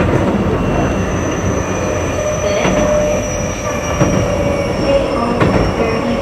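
Keio 8000 series electric train heard from on board while running: steady wheel and rail rumble with a held whine. A couple of sharp clicks come through, a few seconds apart.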